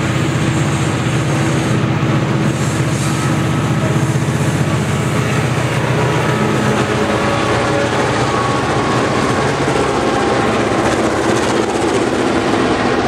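Five EMD diesel-electric locomotives roaring past under load as they climb a grade, their engine drone strongest in the first half and fading about seven seconds in. The rolling rumble and clatter of flat wagons loaded with concrete sleepers then takes over.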